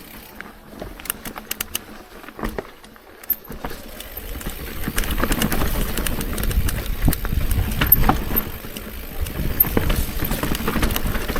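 Mountain bike rolling over rough, rocky ground: scattered clicks and knocks at first, then from about four seconds in a louder rumble of tyres on rock with the bike rattling.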